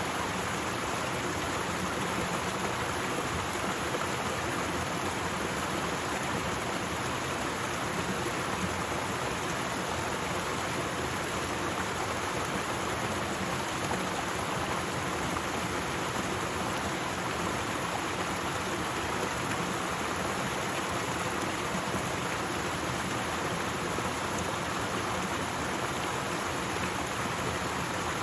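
Waterfall: falling water rushing with a steady, unchanging hiss.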